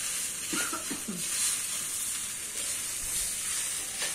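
Fried rice sizzling in a wok on a portable gas stove, a steady high hiss, as it is stirred and turned with a metal spatula.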